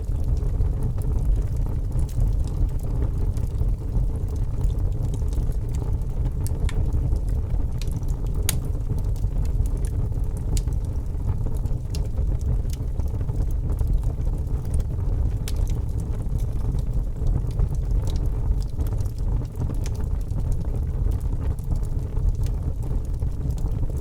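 Wood fire burning in a fireplace: a steady low rumble with scattered sharp crackles and pops from the burning logs, one louder pop about eight seconds in.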